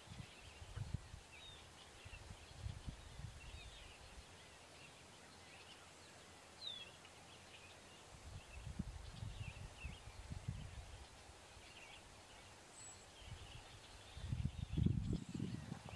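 Faint lakeside ambience of scattered small bird chirps, with one clearer sliding chirp about a third of the way in. Low irregular rumbles come and go about halfway through and again near the end.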